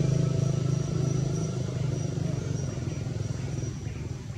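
A motor vehicle's engine running with a steady low hum that fades away over a few seconds, as if the vehicle is moving off.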